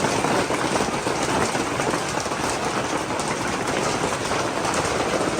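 Heavy rain falling steadily, a dense hiss of countless drops hitting surfaces.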